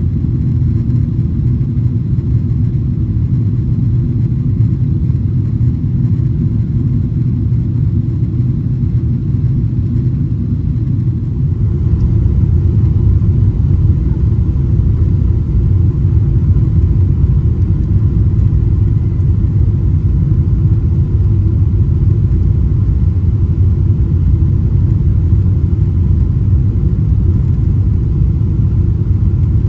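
Boeing 777-300ER cabin noise heard from a window seat: a steady, deep rumble of its GE90 engines and the airflow. It steps up in loudness about twelve seconds in.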